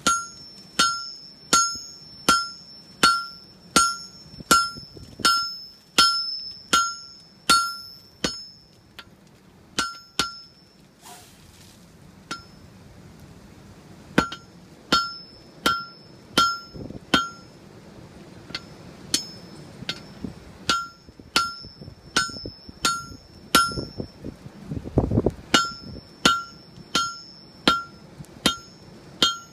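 Blacksmith's hammer striking hot steel on an anvil in a steady rhythm of about one and a half blows a second, each blow ringing with a clear high tone, in runs broken by short pauses. A gust of wind rumbles on the microphone near the end.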